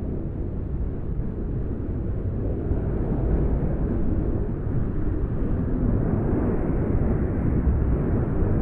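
Winter wind blowing in a steady, deep rushing noise, swelling a little about three seconds in.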